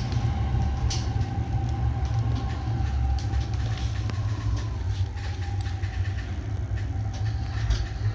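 Sobu Line local commuter electric train running, heard from inside: a steady low rumble with scattered clicks from the wheels over the rails, and a faint steady whine that fades out about five or six seconds in.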